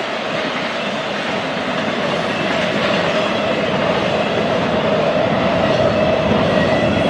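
Freight train rolling past on the rails, a steady loud rumble and rattle with a steady tone running through it, growing slowly louder.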